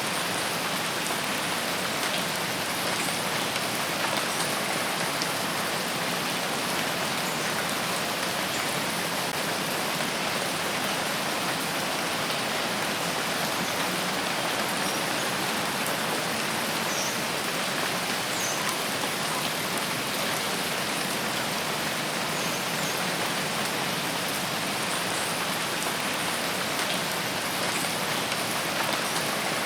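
Steady rain falling in a forest: an even hiss with a few faint high ticks.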